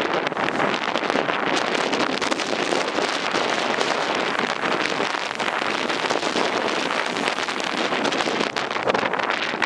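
Storm Ciara's gale blowing over the microphone: a steady rushing noise with a constant crackle.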